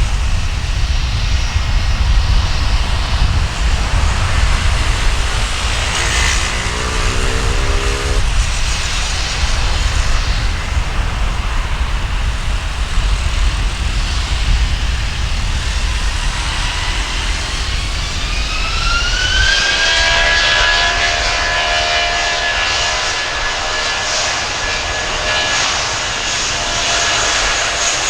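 Airbus A320-232 jet engines (IAE V2500 turbofans) rumbling, then about two-thirds of the way through a whine rising in pitch that levels into a steady high whine: the engines spooling up for a takeoff.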